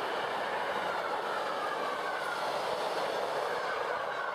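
Coach and wagons of a works train rolling past at close range: a steady rumble and rattle of wheels on the rails, with a faint thin squeal over it.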